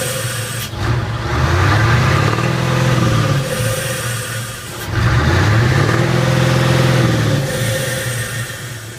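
Nissan Diesel Big Thumb truck's V8 diesel engine being revved again and again, the pitch rising and falling about every four seconds.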